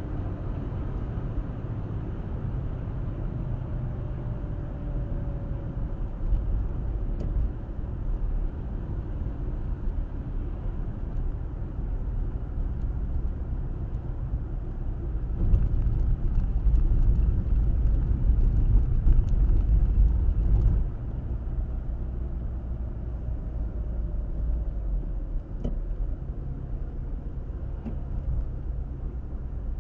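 Car driving along a road: a steady low rumble of tyres and engine, swelling louder for about five seconds from about halfway through, then settling back.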